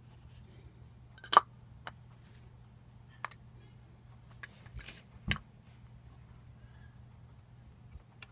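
Scattered clicks and taps of small hard parts being handled during the take-down of a lightsaber replica hilt. Eight or so, irregularly spaced, the loudest about a second and a half in, over a low steady hum.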